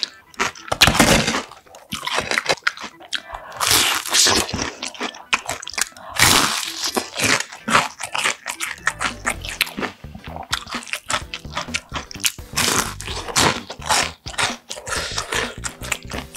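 Close-miked eating sounds: crisp crunching of a breaded, deep-fried pork cutlet being chewed, mixed with softer, wet chewing, in irregular bursts.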